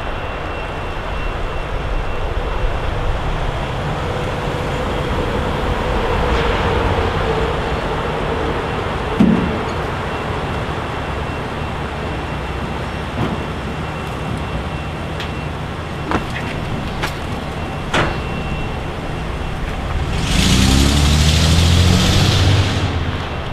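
A motor vehicle running with a steady rumble and a few light clicks. Near the end the engine revs up, rising in pitch, under a loud hiss.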